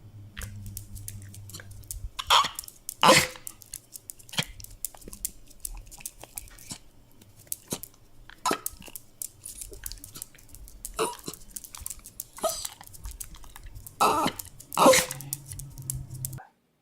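A dog chewing: a steady run of small clicks and crunches, with a few louder short sounds, two at about two to three seconds in and two at about fourteen to fifteen seconds in. The sound cuts off just before the end.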